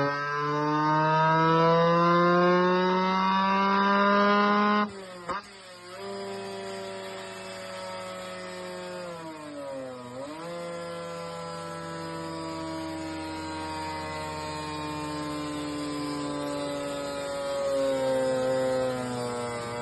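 Kawasaki Ninja RR 150 single-cylinder two-stroke engine, ported and fitted with a titanium racing exhaust, pulling up through the revs on a dyno for about five seconds, then the throttle snaps shut and it runs on at lower, steady revs, dipping briefly about halfway through and picking up again near the end.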